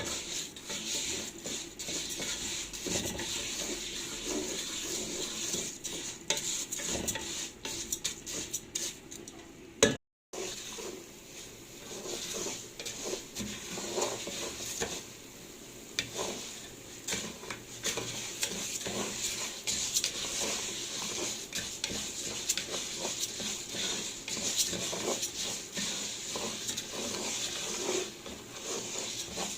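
A metal spoon stirring and clinking against a pot as orzo fries in oil and ghee, with a light sizzle and many small scraping clicks. A sharp knock about ten seconds in, then the sound drops out for a moment.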